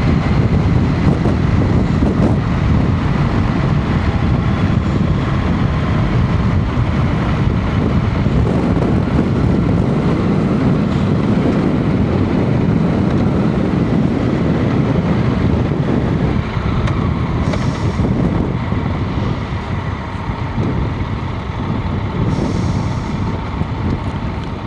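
Heavy diesel vehicle engine running with a steady low rumble. Two short hisses of air come about two-thirds of the way through and again near the end, typical of a truck's air brakes.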